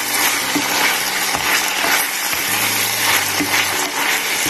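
Chicken pieces sizzling steadily in hot oil in a frying pan, stirred now and then with a wooden spatula.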